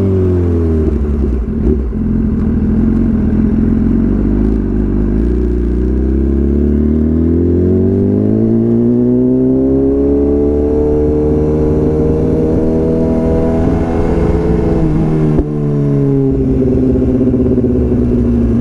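BMW S1000RR inline-four through a full Akrapovič exhaust: the engine note falls over the first couple of seconds, then climbs steadily from about six seconds in and holds high. It drops back again after a sharp click about fifteen seconds in.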